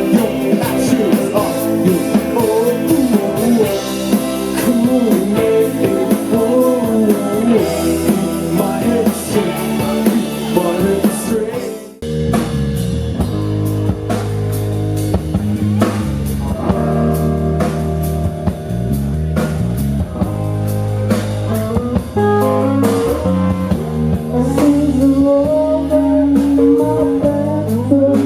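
Live rock band playing: electric guitar, drum kit and singing. About twelve seconds in the music cuts abruptly to a different passage with a heavier bass line.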